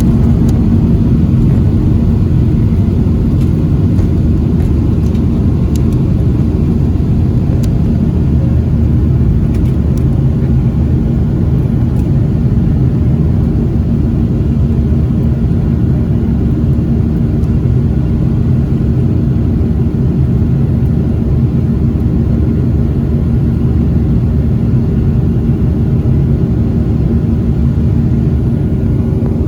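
Jet airliner during takeoff, heard from inside the cabin: a loud, steady rumble of engines and airflow, with a few light clicks or rattles in the first dozen seconds.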